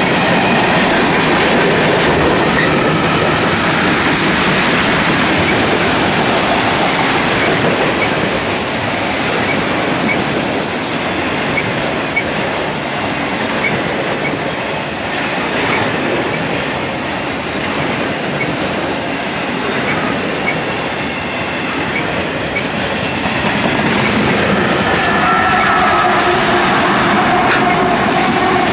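Freight cars of a long train rolling past close by with a steady rail rumble and rattle. Near the end a distributed-power locomotive, a GE ET44AH, draws near and its engine adds a hum over the cars.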